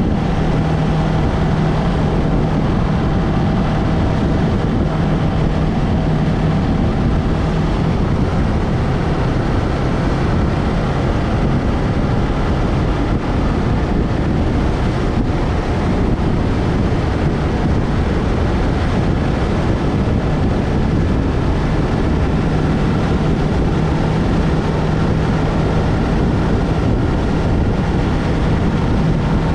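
Yamaha MT-03 motorcycle engine running at a steady pace while riding, with wind rushing over the GoPro microphone.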